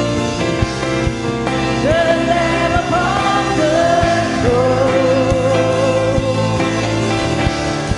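Live contemporary worship music: a singer holding long melodic notes over a band with a steady drum beat.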